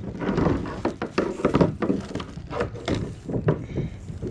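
Irregular knocks, thumps and rattles of fishing gear being handled in a kayak, bumping against the hull.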